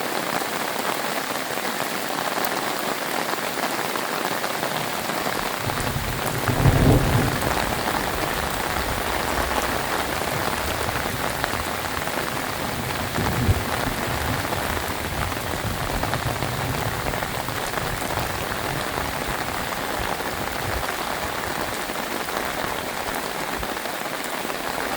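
Heavy rain falling steadily. A short low rumble of thunder comes about six to eight seconds in, and a brief low knock is heard near the middle.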